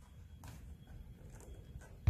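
A few faint, light clicks over a low background rumble.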